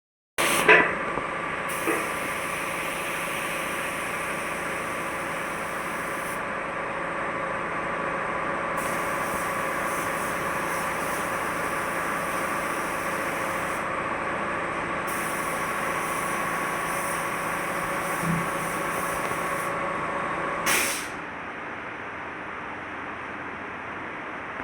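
A machine motor runs steadily with a constant hum and whine for about twenty seconds. It starts and stops with a short burst of hiss.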